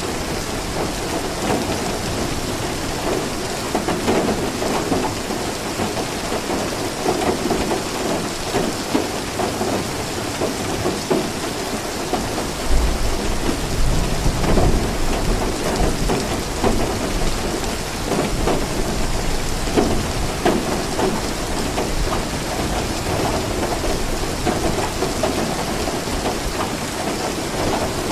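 Steady, heavy rain falling. About halfway through, a low rumble of thunder starts suddenly and rolls on for a few seconds.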